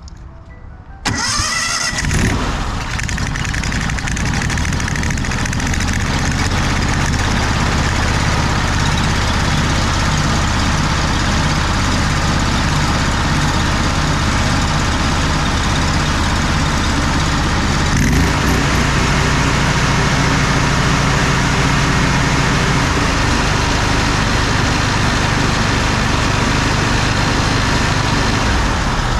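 Honda gasoline engine on a pressure washer starting about a second in, then running steadily. Its note changes briefly about two-thirds of the way through.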